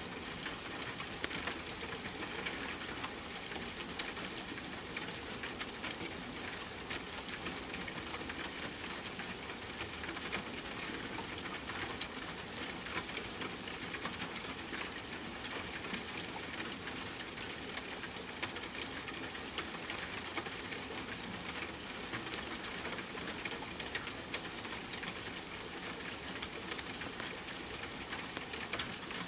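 Steady rain hiss mixed with the crackle of a wood fire: many small ticks and an occasional louder pop.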